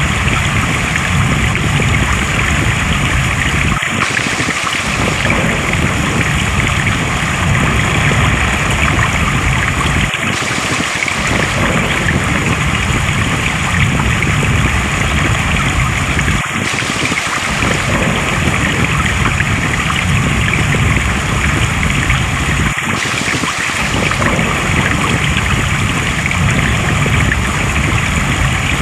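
Steady rush of flowing water, the same stretch of a few seconds repeating about every six seconds as a loop.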